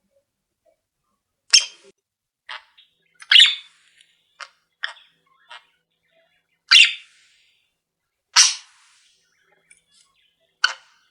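Small pet cage birds calling: about a dozen short, sharp calls at irregular intervals, several of them loud.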